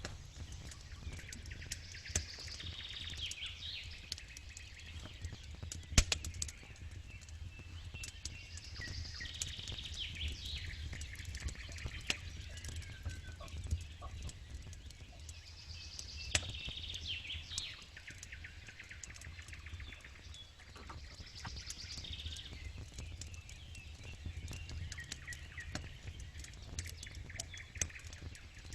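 Campfire crackling with scattered sharp pops, the loudest about six seconds in. A songbird sings a short phrase that recurs every six or seven seconds.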